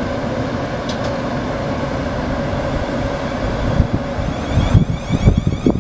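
Siemens Desiro Class 450 electric multiple unit running at the platform, a steady rumble with a held motor tone. Gusty low buffeting comes in over the last couple of seconds, like wind on the microphone.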